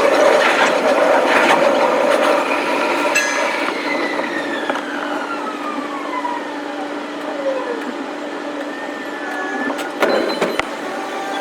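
Electric commuter train running, its motor whine falling steadily in pitch as the train slows, over rumble and clatter from the track. A short sharp knock comes near the end.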